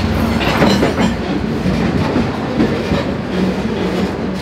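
Freight train rolling along, heard from aboard a grain hopper car: a steady noise of steel wheels running on the rails and the car rattling.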